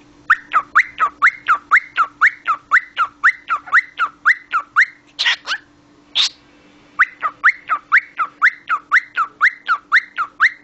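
Cockatiel chirping in a fast, even run of short whistled notes, about four a second, each sweeping up and falling back. Around five seconds in the run breaks for two short harsh calls, then starts again.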